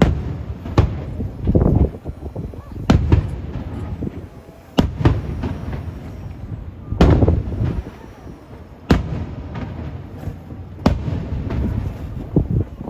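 Aerial firework shells bursting, one sharp bang about every two seconds, each followed by a low rumble.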